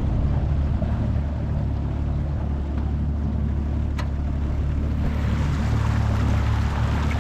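A 25 hp Mercury four-stroke outboard runs steadily under way, with water rushing along the jon boat's aluminium hull. There is a single sharp click about four seconds in, and the water hiss grows a little after that.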